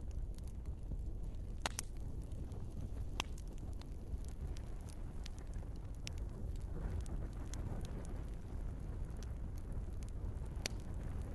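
Wood fire burning in a fireplace: a steady low rumble of flames with scattered sharp crackles and pops from the logs, a few louder snaps among them.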